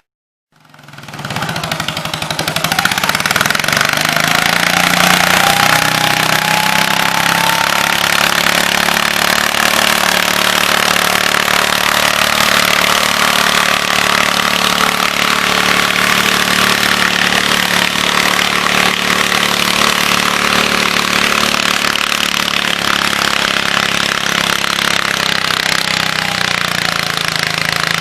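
Tractor engine running hard and steady under load while pulling a weight sled. It comes in a moment after a brief silence at the start, builds over about two seconds, then holds loud and even.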